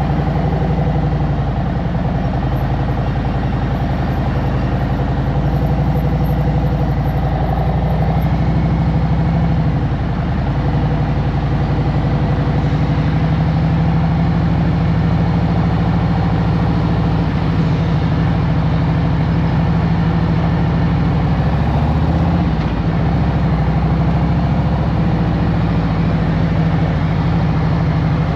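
Stage 1 Harley-Davidson Road Glide Special's Milwaukee-Eight V-twin engine running steadily at low engine speed, with a few brief dips and recoveries in engine speed.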